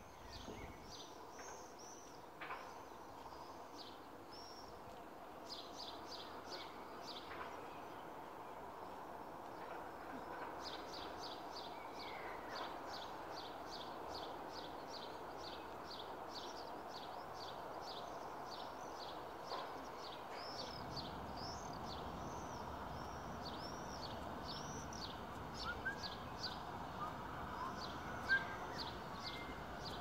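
Small birds chirping in quick runs of short, high, arching notes, over a steady low background noise.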